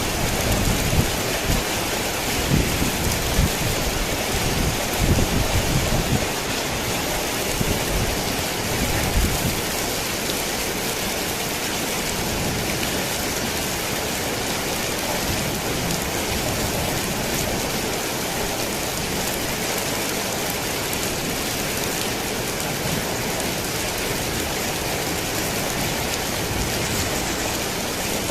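Steady rain pattering on a tin roof, with low thunder rumbling through the first several seconds and dying away, leaving an even rain hiss.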